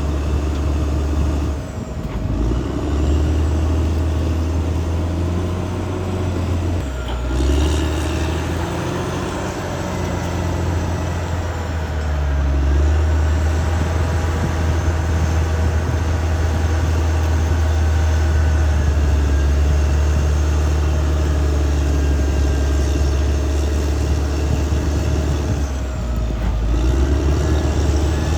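Caterpillar D6R XL bulldozer's diesel engine running steadily under load, its note dipping and recovering about two, seven, twelve and twenty-six seconds in, with thin high squeals above it.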